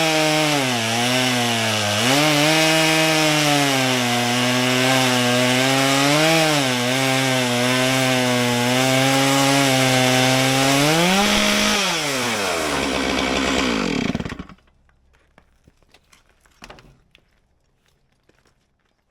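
Stihl MS661 two-stroke chainsaw ripping a maple log in a chainsaw mill, its pitch sagging and recovering as it loads in the cut. About twelve seconds in, the engine winds down and stops.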